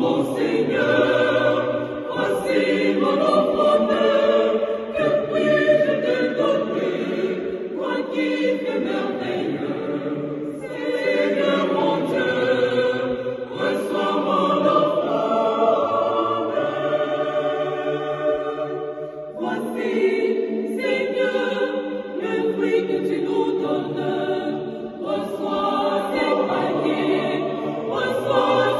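A mixed choir sings a French offertory and thanksgiving hymn in several voice parts, in phrases with brief breaths between them.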